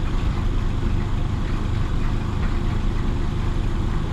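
Isuzu DA640 diesel engine of a 1966 Isuzu BXD30 bonnet bus running steadily.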